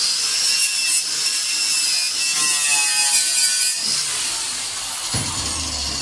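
Handheld power tool running against the steel door panel of a 1939 Hillman Minx, cleaning it up: a high steady whine over a loud hiss, easing off after about four seconds, with a low thump about five seconds in.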